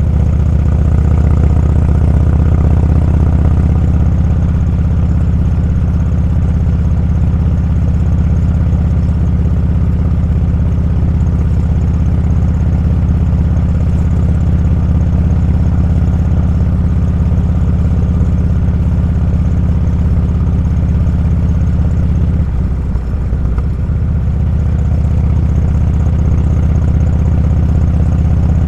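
Motorcycle engine running steadily while riding, with a brief dip in the engine note a little past three-quarters through, as when the throttle is eased off.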